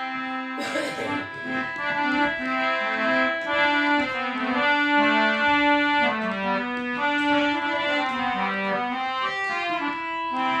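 Instrumental interlude of a Hindi patriotic song: a keyboard melody of held notes stepping up and down, with a reedy, accordion-like tone.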